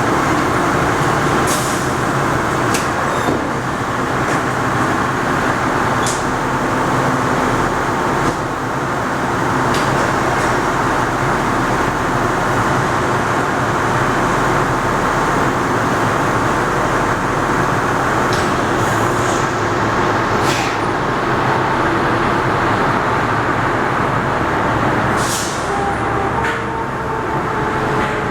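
Heavy fire apparatus diesel engines running loud and steady, with short air-brake hisses every few seconds.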